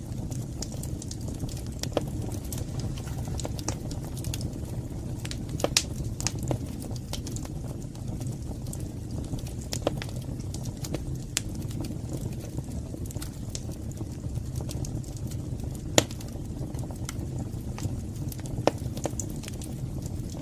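Wood fire in a fireplace crackling: a steady low rumble of the burning with scattered sharp pops and snaps, the loudest pop about three-quarters of the way through.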